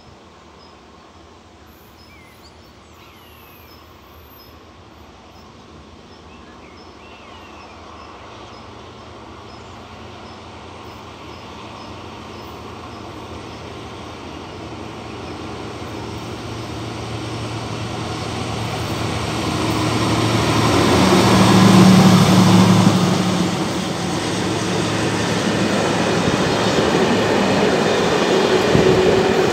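Diesel-hauled works train approaching and passing at speed. The locomotive's engine drone grows steadily louder for about twenty seconds and peaks as it goes by, then the wheels of the following wagons rumble and clatter past.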